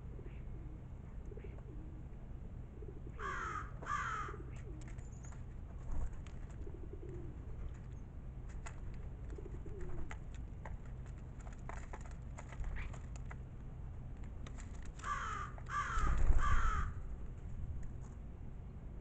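Crow cawing: two harsh caws a few seconds in, then a run of three more near the end, with a low rumble under the last caws.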